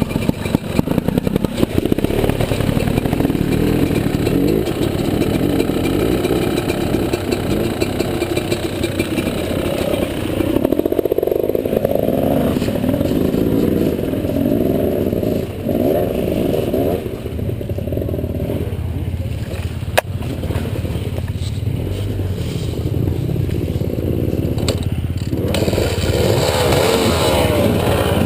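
Trail-bike engine running and revving through a river crossing, with clattering, and a single sharp click about two-thirds of the way through.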